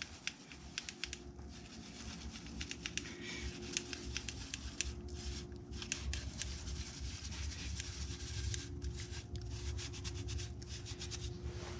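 Foundry sand being worked into a moulding flask over 3D printed pattern plates: continuous scratching and rubbing with many small sharp ticks over a low rumble.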